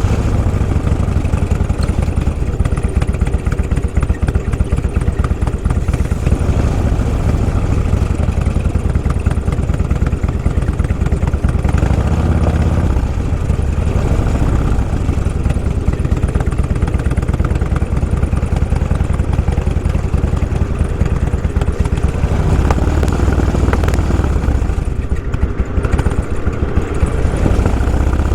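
Motorcycle engine running steadily while riding, a continuous deep rumble.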